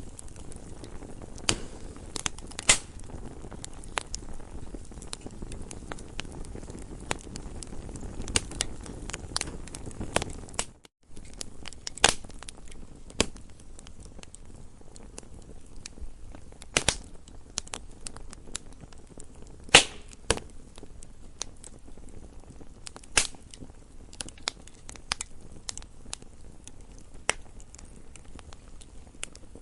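Campfire crackling: irregular sharp pops and snaps of burning wood over a low rumble of flames. The sound cuts out to silence for a moment about eleven seconds in.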